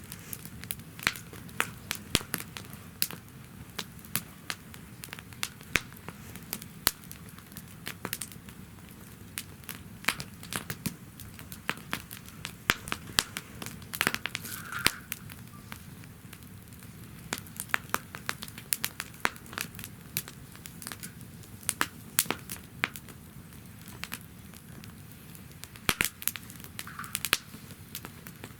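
Wood fire burning in a fire pit stand, crackling with irregular sharp pops of varying loudness over a low steady background.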